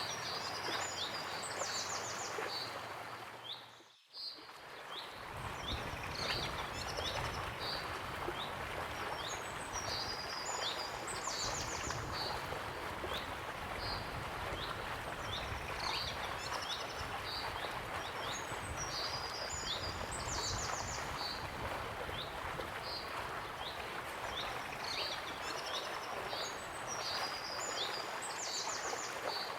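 Waterfall rushing steadily while small birds chirp and twitter over it, the same run of calls coming round about every nine seconds. The water sound dips away briefly about four seconds in, then comes back.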